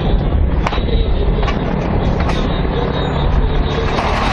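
Helicopter in flight: steady, loud rotor and engine noise, with one sharp click well under a second in.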